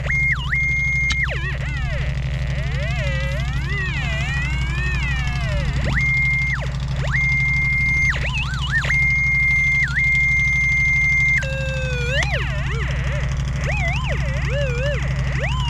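Metal detector sweeping for a buried steel property stake: warbling tones that glide up and down, broken by a steady high beep held for a second or more at a time, the longest just past the middle. A steady low hum runs underneath.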